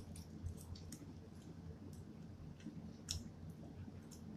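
Faint chewing with scattered small, sharp mouth clicks, one a little louder about three seconds in.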